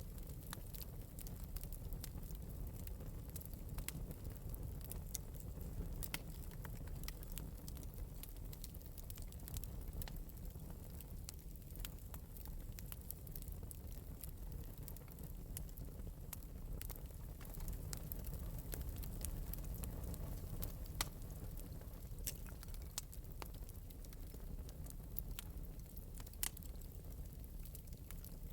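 Wood fire burning in an open metal fireplace, with a steady low rumble and frequent small crackles and pops scattered throughout, one sharper pop about three quarters of the way through.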